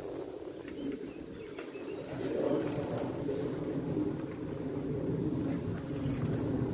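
Outdoor ambience of birds calling over a steady low rumble.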